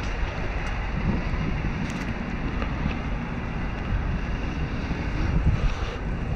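Wind buffeting the microphone, a steady low rumble, with a few faint clicks about two seconds in.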